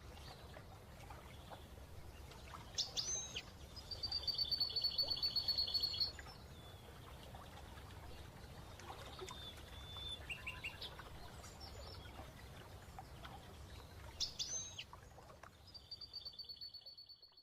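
A finch singing: short sharp calls about three seconds in and again near fourteen seconds, each followed by a fast, evenly pulsed trill. A few softer chirps come in between, over a low, steady background rumble.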